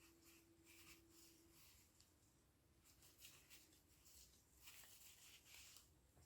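Near silence, with a few faint, brief clicks and rustles.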